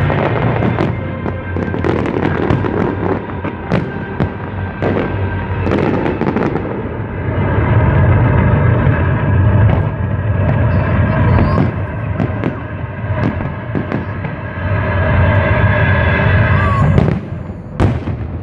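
Fireworks bursting in a continuous barrage of bangs and crackling, with music playing underneath. Near the end the bursts thin out to a few sharp cracks.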